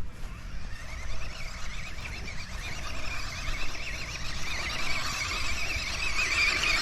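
A remote-control toy monster truck's small electric motor whining, its pitch wavering up and down as it drives, starting about a second in, over a low rumble of wind on the microphone.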